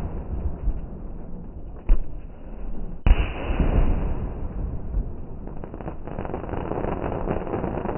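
Fireworks going off: a sharp bang about two seconds in, then a louder bang about three seconds in that rumbles away, followed by a dense run of small crackling pops.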